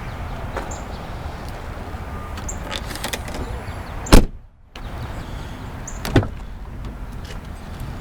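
A car door on a 2004 Buick Rendezvous shut hard about four seconds in, with a single sharp slam. A smaller knock follows about two seconds later.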